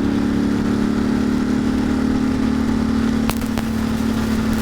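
Ducati Monster's V-twin engine running at steady revs under way, with road and wind rumble. Two sharp clicks about three and a half seconds in.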